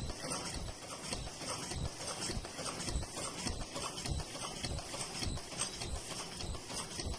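Automatic disposable face mask cutting and earloop welding machine running, with a regular mechanical knock about twice a second over a steady high hiss.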